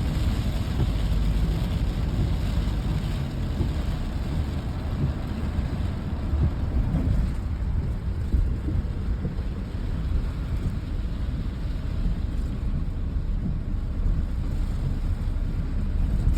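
Rain falling steadily over a deep, continuous rumble.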